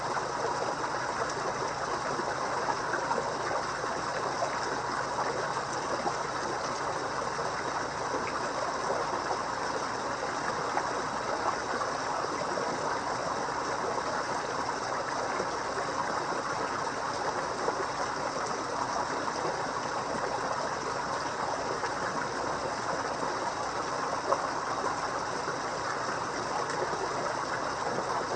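Water running and splashing steadily into a koi pond, an even trickling rush with a few small splashes.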